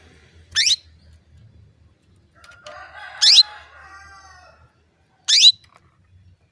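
Female canary giving three short call notes, each a quick upward sweep, a couple of seconds apart: the hen's call used to draw a male canary into song. Under the second note runs a fainter, longer call lasting about two seconds.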